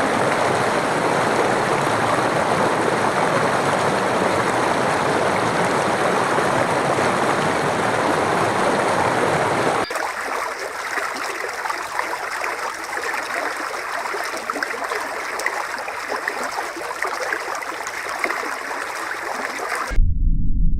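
Steady rushing water, like a stream, in two clips joined by a hard cut about ten seconds in. The second is higher and thinner, with less low end.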